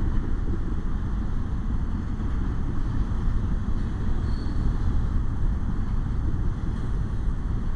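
Double-stack container train rolling past at a grade crossing: a steady rumble of the cars' wheels on the rails.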